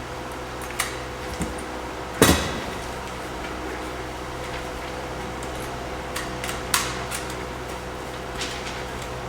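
Several knocks and clicks over a steady hum. The loudest, a heavy thump with a short ring, comes about two seconds in.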